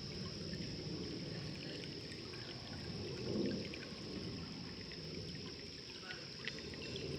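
Water of a small waterfall trickling and splashing steadily, with a brief louder swell about halfway through.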